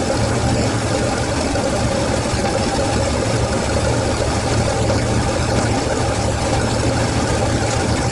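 Rebuilt Toyota 4A-GE four-cylinder engine on carburetors idling steadily.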